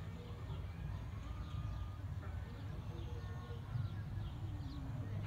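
Small birds chirping in many short, quick falling notes over a steady low rumble.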